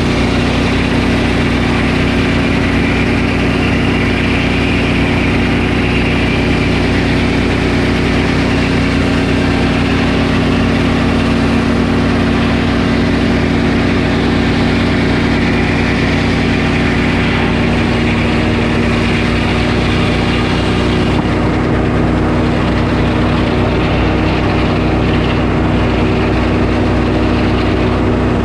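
Sawmill engine running steadily at an even pitch while milling a pine log; the higher part of the sound eases a little about three quarters of the way through.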